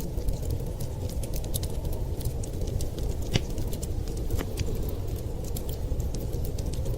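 Wood fire crackling in a fireplace, with scattered sharp pops, the loudest about three and a half seconds in, over a steady low rumble.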